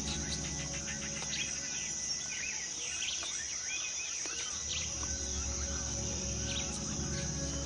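Tropical rainforest ambience: a steady high insect chorus with many short bird chirps and calls over it. A low steady drone sits underneath, dropping away for a few seconds mid-way.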